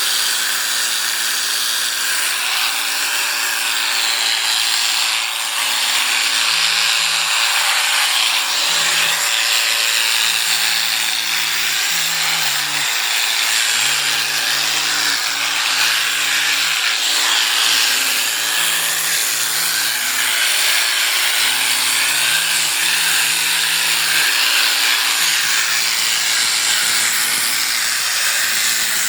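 Electric sheep-shearing clippers running steadily while cutting through a fleece.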